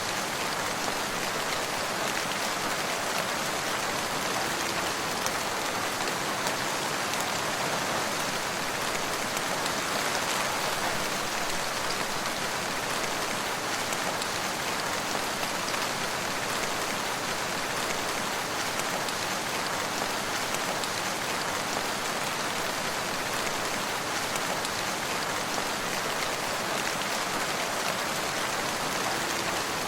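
Steady rain falling on surfaces, an even hiss of many drops with no change in strength.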